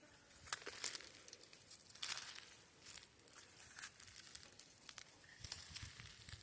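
Dry leaves and twigs crackling and crunching underfoot in irregular steps, faint.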